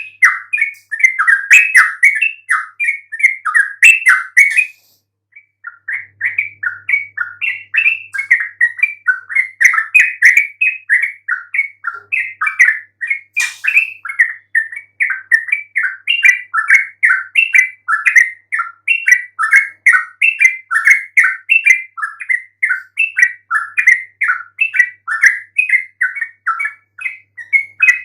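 Yellow-vented bulbul singing a fast, continuous run of short chirps, several a second, with a brief pause about five seconds in.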